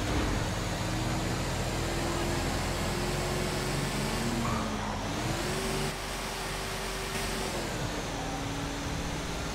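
Heavy truck engine running under way. Its pitch dips about four seconds in, comes back up, then drops again near the end, as with gear changes.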